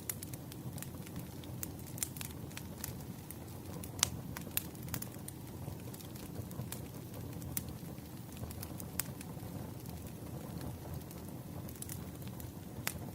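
Wood fire burning: a low steady rumble with irregular sharp crackles and pops, the loudest pop about four seconds in.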